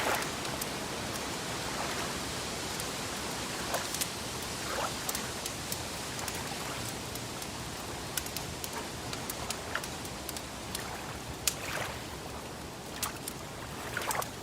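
Wood fire crackling: scattered sharp pops and snaps over a steady hiss, with one louder pop in the second half.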